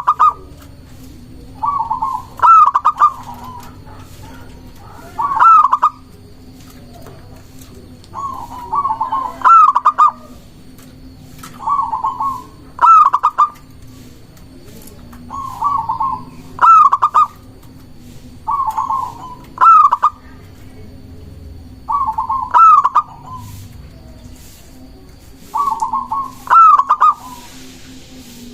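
Zebra dove (perkutut) cooing its song over and over: short rolling phrases, each ending in a couple of rising notes, repeated about every three seconds.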